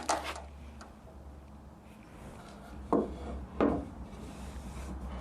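Wood being handled: light rubbing and scraping, then two sharp knocks on wood about three seconds in, roughly two thirds of a second apart, over a steady low hum.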